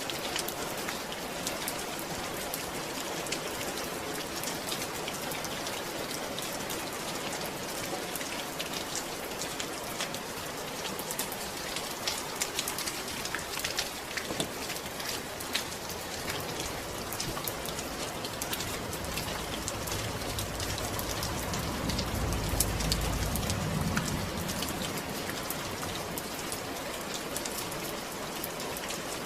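Steady rain falling and pattering on a surface, with many fine, distinct drop ticks. A low rumble swells about twenty seconds in and fades a few seconds later.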